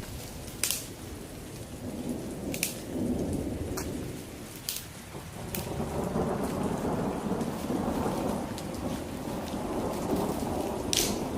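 Heavy rain falling, with rolling thunder that swells to a louder rumble about halfway through, and scattered sharp ticks of drops striking close by.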